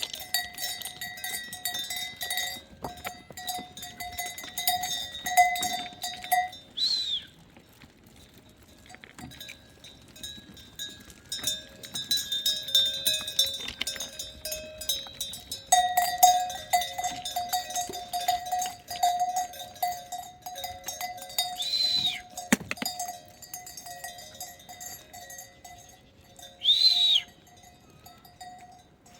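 Livestock bells on a grazing herd clinking and ringing continuously, with three short high animal calls about seven, twenty-two and twenty-seven seconds in.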